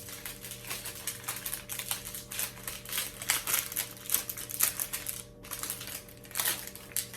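Thin plastic wrapper crinkling in quick, irregular crackles as it is pulled off.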